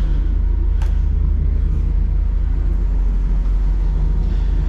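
Diesel engine running steadily with a low, even rumble, and a single short click about a second in.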